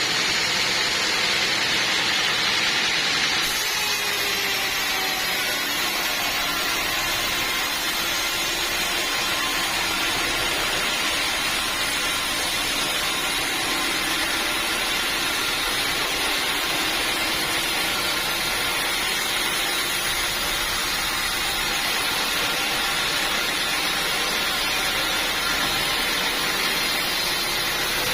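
Sawmill machinery running steadily, a continuous loud mechanical noise that fits a saw working through a teak log; the tone shifts slightly about three seconds in.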